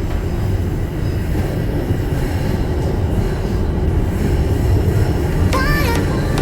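TTC rail car running on the tracks: a steady low running noise, with a brief wavering higher tone near the end.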